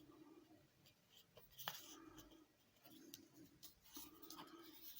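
Faint rustling and creasing of origami paper being folded by hand, with a few soft ticks.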